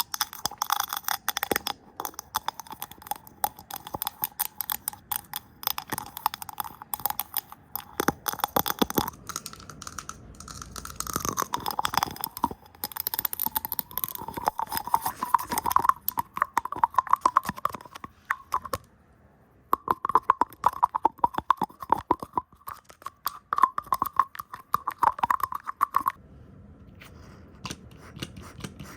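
Fast, chaotic close-up ASMR tapping and brushing on the camera lens and microphone, with rapid clicks and rustling hand sounds, broken by a brief pause about two-thirds through and quieter near the end.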